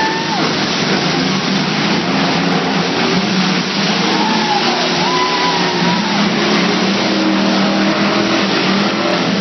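Several truck engines running and revving together in a demolition derby, a loud, steady din with rising and falling engine notes.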